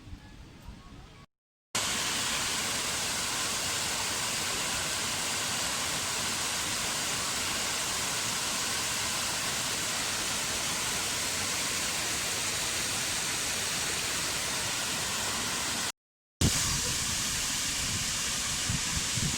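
A steady, even rushing noise, as loud in the highs as in the lows, with no tone or rhythm. It starts and stops abruptly at edit cuts to silence.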